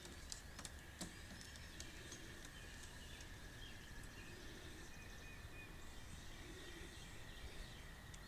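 Faint background noise with a steady high-pitched whine, a few soft clicks and faint short chirps.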